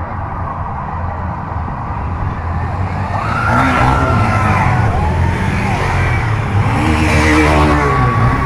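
Police patrol vehicles in a street parade, their engines running as they drive past and growing louder about three seconds in.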